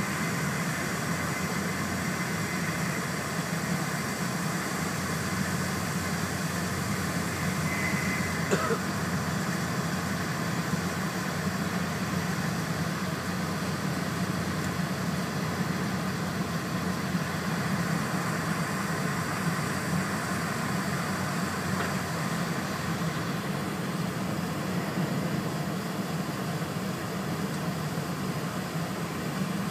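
Steady running noise of an E4 series Shinkansen at speed, heard inside the passenger car: a continuous low rumble with a hiss of air and wheels on the rails. A short falling squeak comes about eight seconds in.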